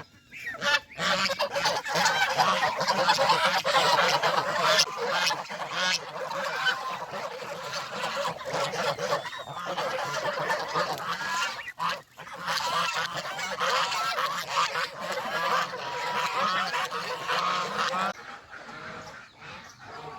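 A flock of domestic geese honking, many calls overlapping in a dense continuous chorus that thins out about two seconds before the end.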